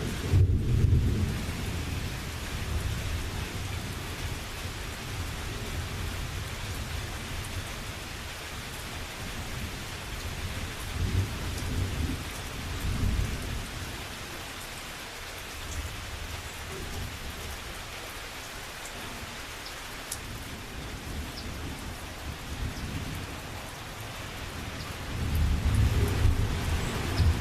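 Thunderstorm: steady rain hiss with low rolling thunder that swells at the start, again about halfway through, and more strongly near the end.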